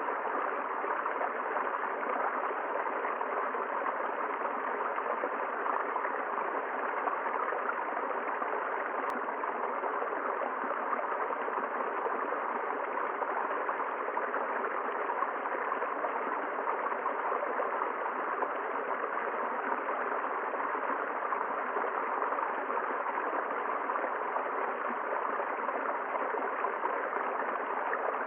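A river flowing, a steady, unchanging rush of water.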